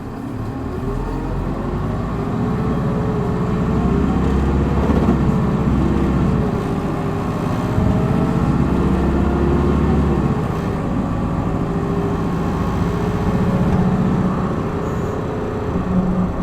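Hino Blue Ribbon city bus's diesel engine heard from inside the bus, accelerating hard in power mode. The engine note grows louder and rises and falls in pitch over the first ten seconds, then settles to a steadier run.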